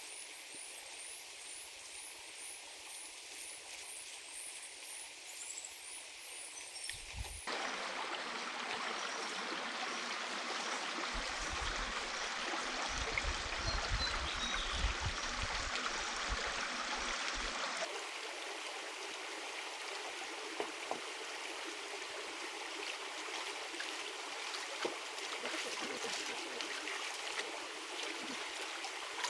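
A steady rush of flowing water, like a jungle stream. For the first seven seconds or so an insect chirps high and fast in a regular repeating pattern. A low rumble comes and goes in the middle stretch.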